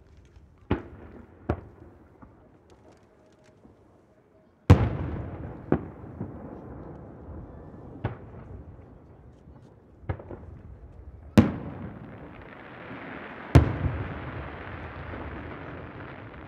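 Aerial firework shells bursting over a bay, about eight sharp booms at uneven intervals, the loudest about five seconds in, each rolling on in a long echo off the surrounding hills. A steady hiss of sparks builds in the last few seconds.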